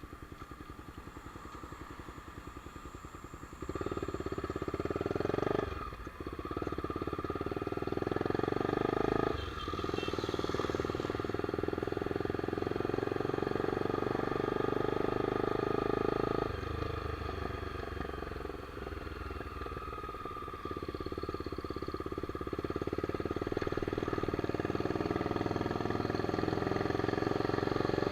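Honda CBX 250 Twister's single-cylinder four-stroke engine idling with an even pulse, then pulling away and accelerating, with two brief dips as it shifts up. It runs steadily, eases off about two-thirds of the way through, then picks up speed again.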